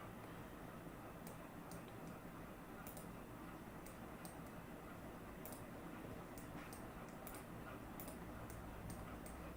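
A computer mouse clicking lightly again and again at uneven intervals, placing point markers on a map, over a faint steady background hum.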